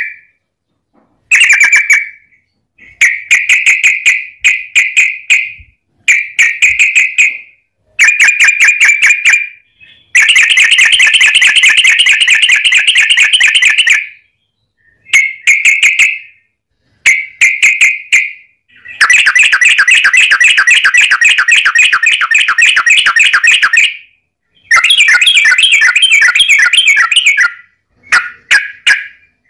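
Yellow-vented bulbul (trucukan) singing long rapid chattering rolls, phrases of fast repeated notes lasting from one to about five seconds with short pauses between, the longest runs around a third and two thirds of the way in.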